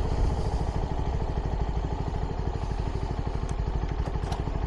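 CFMoto 300NK single-cylinder engine through its stock exhaust, running steadily at low revs with an even, pulsing exhaust beat.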